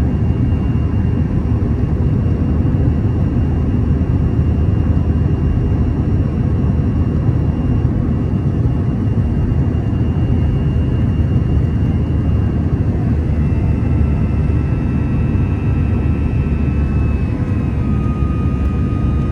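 Airbus A321's CFM56 jet engines running during a takeoff: a loud, steady low rumble with faint whining tones above it that shift in pitch a few seconds before the end.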